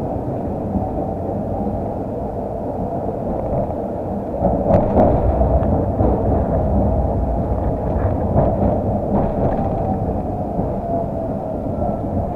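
Steady low rumble inside a tram car, with a few knocks and rattles about halfway through.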